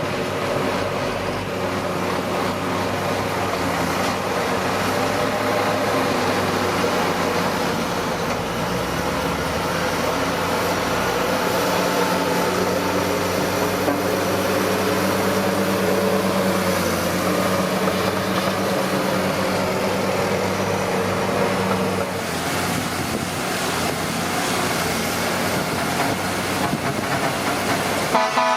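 Komatsu D41P crawler dozer's diesel engine running steadily under work, its pitch wavering slightly; the sound shifts and thins about three-quarters of the way through.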